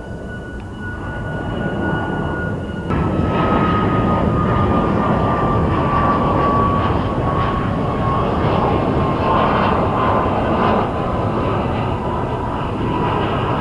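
Boeing 737 jet engines at departure power, a loud steady jet noise with a fan whine that slowly falls in pitch as the airliner moves past; the loudness steps up about three seconds in.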